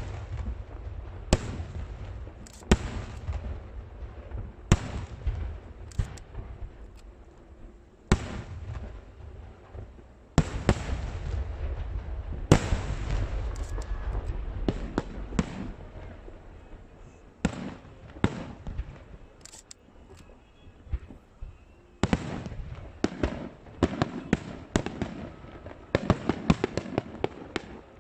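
Aerial fireworks shells bursting overhead: a run of sharp bangs, a second or two apart, each followed by a low rumble, with quick crackling clusters about ten seconds in and again near the end.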